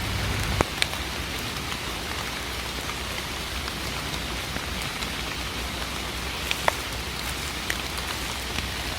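Steady rain falling, with a few sharper drops ticking close by.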